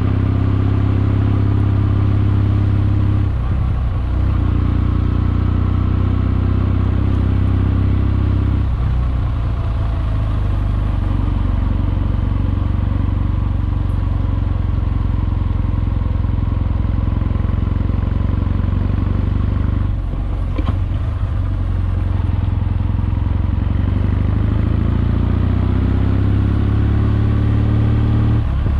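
Kawasaki W650's air-cooled parallel-twin engine running as the motorcycle rides along, the engine note dropping away briefly three times and the revs climbing again near the end.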